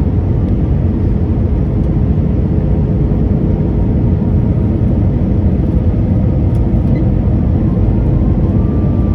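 Steady cabin noise inside a UNI Air airliner: a deep, even rumble with a faint steady hum running through it.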